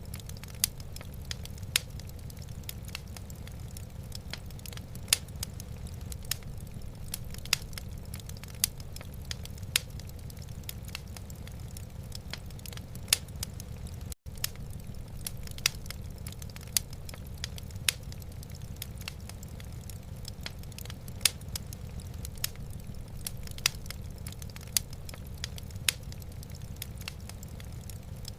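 Wood fire in a fireplace crackling, with irregular sharp pops and snaps over a steady low rumble. The sound cuts out for an instant about halfway through.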